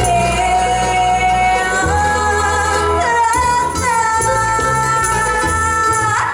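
Gypsy song sung over steady accompaniment, ending on long held vocal notes. The voice holds one note for about three seconds, steps up to a higher note and holds it, then cuts off sharply at the close of the song.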